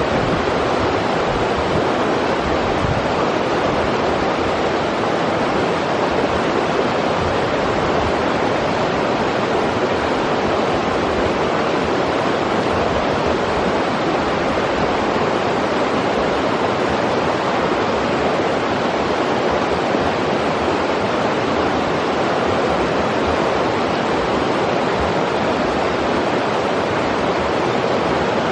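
Steady rush of a forest river's flowing water, an even roar with no breaks.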